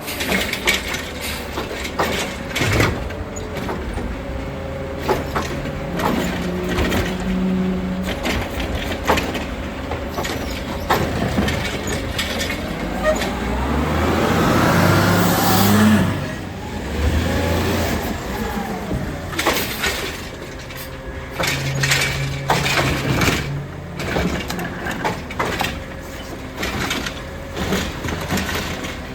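CCC Heil Rapid Rail automated side-loader garbage truck at work: its engine rises in pitch to a peak about halfway through and then drops back, with repeated knocks and clatter of metal and bins throughout.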